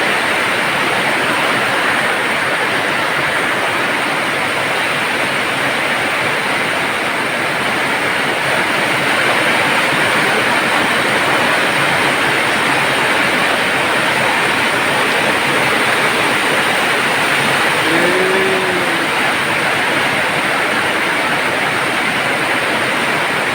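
Heavy rain pouring steadily, a loud even hiss. A brief wavering tone sounds once about three-quarters of the way through.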